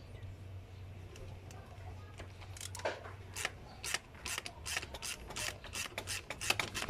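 Irregular sharp clicks and taps of hand tools and metal parts being handled, sparse at first and coming quicker near the end, over a low steady hum.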